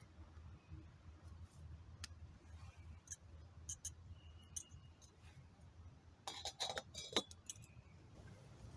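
Metal camping pot and its parts clinking as they are handled: a few scattered light clinks, then a quick cluster of sharper clinks and knocks about six to seven and a half seconds in, over a faint low rumble.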